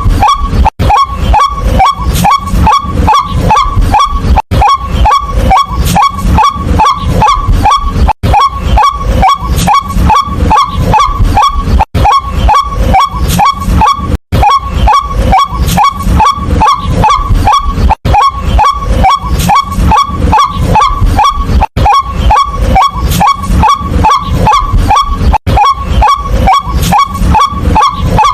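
White-breasted waterhen (nok kwak) calling loudly: a fast, unbroken run of repeated honking notes, about three a second, with a brief break every few seconds.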